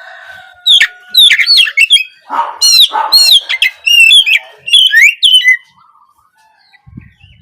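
Oriental magpie-robin (kacer) singing a fast, varied song of whistled notes and quick sweeping glides, with some harsher rasping notes a couple of seconds in. The song stops for about a second and a half near the end.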